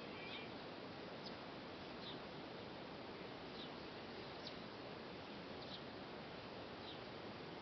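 A small bird giving short, high chirps about once a second over a steady outdoor background hiss.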